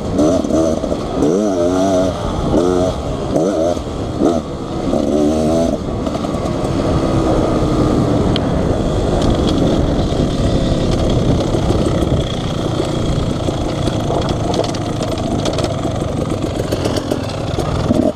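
Dirt bike engine revving up and down rapidly with throttle changes for the first several seconds, then running more steadily under load.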